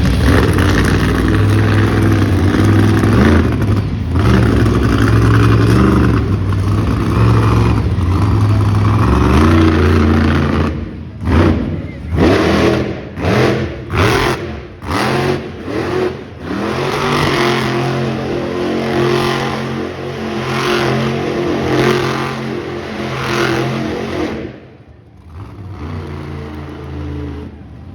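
Monster truck engine running loud and steady, then blipped in a quick series of short revs, then held steady again before falling away near the end.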